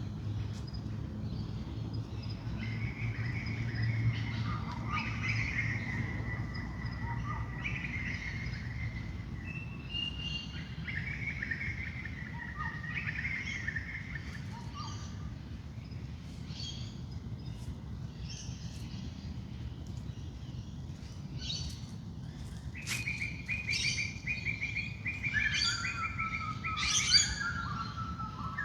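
Several wild birds calling and singing in a dawn chorus, with whistled and chirped notes throughout and a run of stepped, falling calls near the end, over a steady low rumble.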